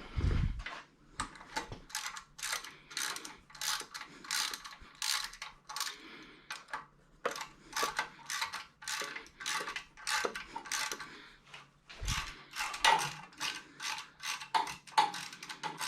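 Socket ratchet wrench clicking through repeated strokes as a fastener is turned, about three clicks a second with short pauses. There is a dull thump near the start and another about twelve seconds in.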